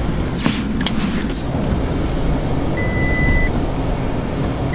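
Camper van's engine running with a steady low rumble as the van tries to move off through deep snow, with a few short knocks in the first second or so. A high electronic beep sounds about three seconds in and again at the very end, the van's reversing beep.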